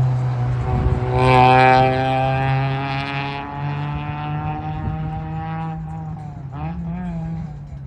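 Sports car engine running at a steady high note, loudest early on and slowly fading after about four seconds, with a brief wavering in pitch near the end.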